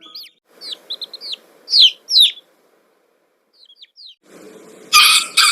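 Chicks peeping in short, high, arched chirps that come in small groups. About five seconds in, a loud, harsh animal call with a clear pitch cuts in.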